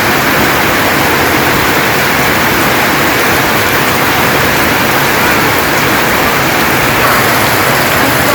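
Heavy, steady rain falling, a dense hiss of drops on surfaces.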